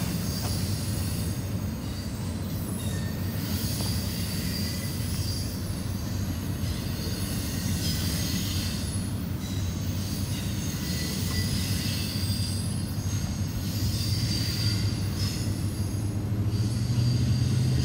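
Freight cars of a rock train rolling past on the rails: a steady rumble and rattle of wheels on track, with faint thin high-pitched wheel squeal above it.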